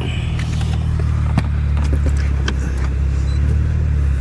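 Steady low engine and road hum of an Infiniti Q50 heard from inside its cabin as it creeps along at low speed, with a few faint clicks.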